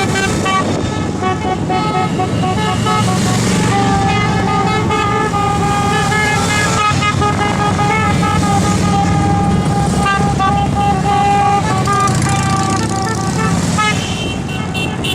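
Motorcycle engines running with horns tooting over and over at several different pitches.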